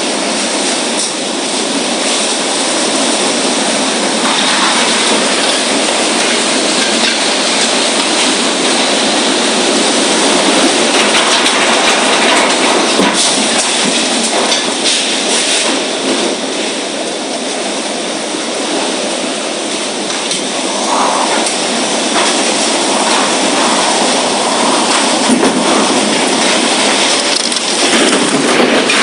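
Loud, steady rushing roar of a violent storm, rising and falling slightly in strength without any break.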